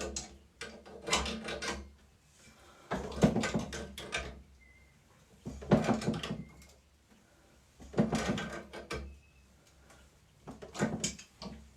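Channel-lock pliers tightening a shower head onto its taped shower arm, in five short bursts of metal-on-metal turning noise about every two and a half seconds, one per stroke of the pliers.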